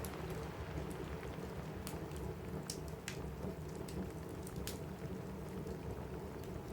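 Steady rain falling on a roof, with a low rumble underneath, and a few sharp crackles and pops from a wood fire in a fireplace, the clearest a little after two seconds in and near the middle.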